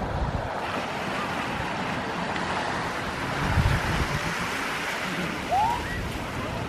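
Sea waves washing onto the shore in a steady rush of surf, with low gusts of wind buffeting the microphone. Near the end comes a brief whistle that rises and falls.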